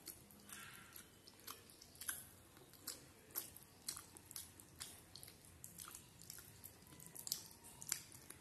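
A person chewing a mouthful of katla fish curry and rice, close to the microphone, with irregular soft mouth clicks one or two a second.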